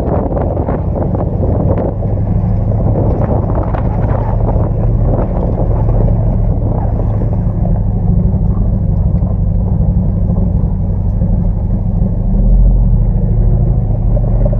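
Dodge Ram pickup truck's engine running steadily as it drives a rough dirt mountain trail, with a burst of clicks and knocks in the first couple of seconds. The engine gets louder about twelve seconds in.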